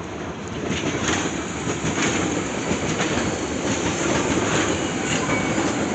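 Red DB regional electric multiple unit passing close by: a steady rumble of wheels on rail, with repeated clacks as the wheels run over rail joints and points, growing louder about a second in.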